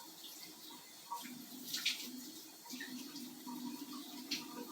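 Two pet birds fighting: a few brief scuffles and wing flaps over a faint low murmur.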